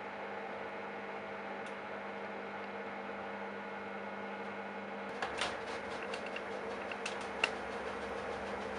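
Candy Bianca washing machine mid-way through a 60° wash: a steady electrical hum, then about five seconds in the drum starts turning with a low rumble and a few sharp clicks and rattles.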